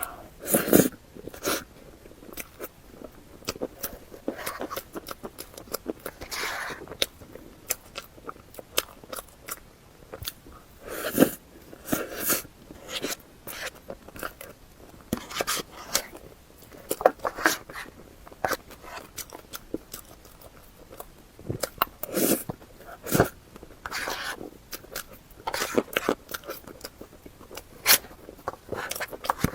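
Close-miked eating: a person biting and chewing crunchy food, with irregular bites and many small mouth clicks.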